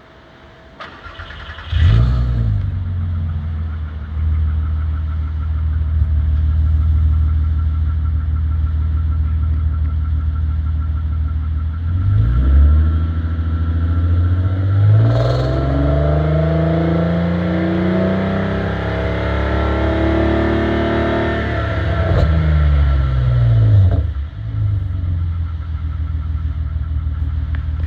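Audi TT mk1 3.2 V6 running through a full Scorpion resonated exhaust with a de-cat section. The engine catches about two seconds in with a brief flare and settles to idle. About halfway through it is revved slowly up, held at higher revs for several seconds, then let fall back to idle.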